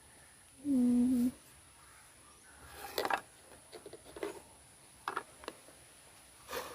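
A short hummed 'mmm' from a person about a second in, then scattered clicks and rustles as the multimeter's test leads are handled in their packaging.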